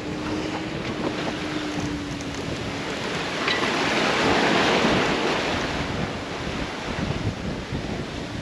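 Sea water rushing past a sailing yacht's hull, with wind buffeting the microphone. The wash swells louder for a few seconds in the middle, as a wave passes. A faint steady hum runs through the first couple of seconds.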